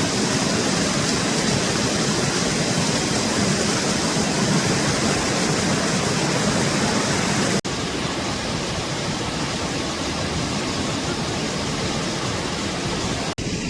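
Heavy rain pouring down in a loud, even hiss. It breaks off for an instant about seven and a half seconds in and carries on slightly quieter.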